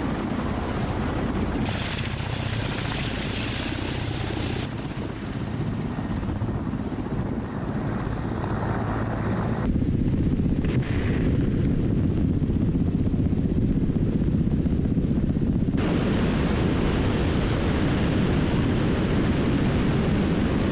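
Ka-52 attack helicopter's coaxial rotors and turboshaft engines running steadily, a continuous low drone that changes tone abruptly at several cuts.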